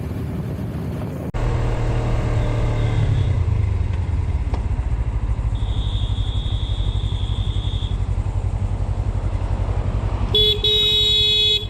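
Motor vehicle engine running on the road, likely a motorcycle. Near the end a vehicle horn sounds one steady note for about a second.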